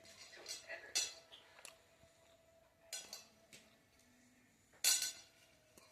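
A few sharp clinks and knocks of hard objects being handled, the loudest near the end.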